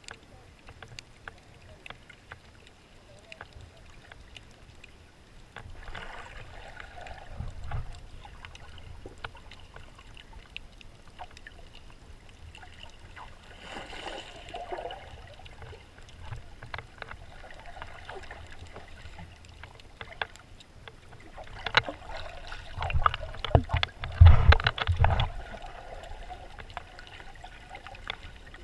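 Muffled water sloshing and moving around the camera, with many small scattered clicks. It swells a few times, and the loudest part is a run of heavier sloshing and low thuds about 22 to 25 seconds in.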